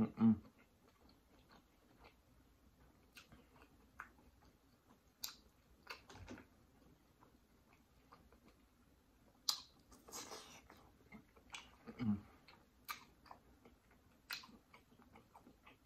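Close-miked chewing and wet mouth sounds of a person eating a seafood boil, with irregular sharp clicks and smacks and a couple of low thumps.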